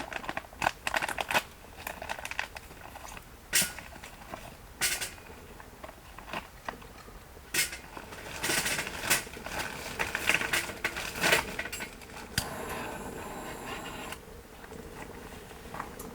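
Irregular clicks, knocks and rustling of objects being handled, with a clustered run of clatter in the middle.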